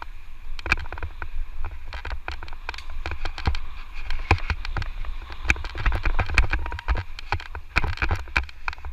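Electric mountain bike rattling over a rough dirt trail: dense irregular clicks and knocks from the frame and drivetrain, over a steady low rumble of wind buffeting the microphone.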